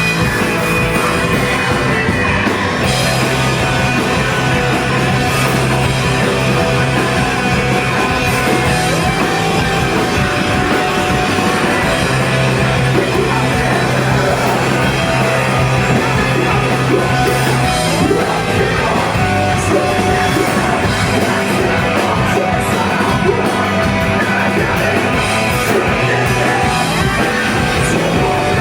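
A hardcore band playing live, with loud distorted guitars, bass and drums under yelled vocals.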